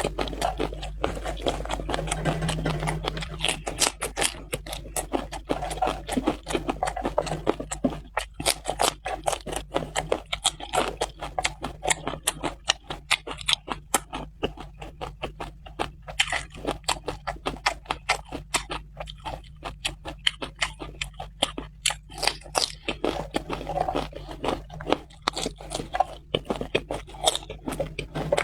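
Close-miked chewing of a person eating, with many quick, irregular crunchy and wet mouth clicks.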